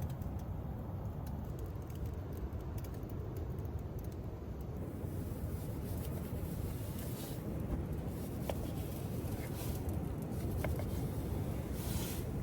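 Steady low rumble of strong wind, with a few faint light clicks and two brief pings.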